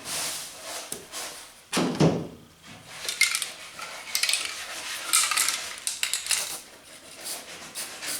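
Aerosol can of rust encapsulator rattling as it is shaken, with short hissing sprays, and a single knock about two seconds in.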